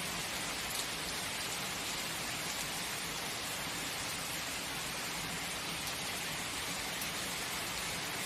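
Steady heavy rain, an even hiss with faint scattered drop ticks.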